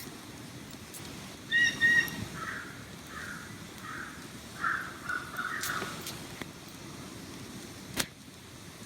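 A bird calling over a steady outdoor background: two loud, clear calls, then a quick run of about seven harsher calls. A sharp click near the end.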